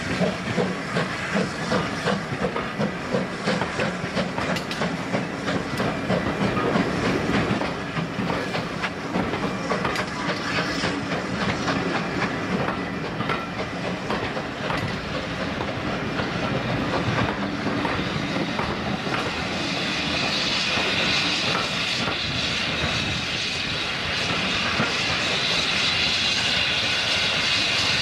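Steam-hauled train of passenger coaches pulling out and rolling past, the wheels clicking rhythmically over the rail joints, with steam hissing. A steadier, higher hiss builds and grows louder about two-thirds of the way through.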